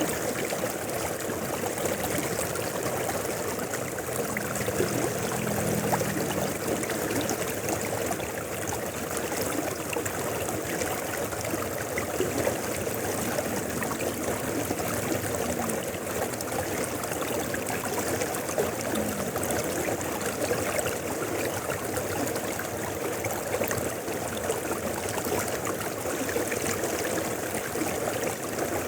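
Mountain river flowing steadily over its bed: a continuous, even wash of running water.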